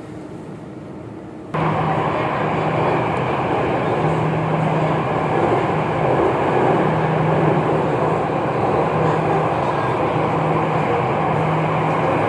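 Jakarta MRT train running, heard from inside the carriage: a loud, steady rumble of wheels and running gear with a low hum that comes and goes. The noise starts abruptly about a second and a half in.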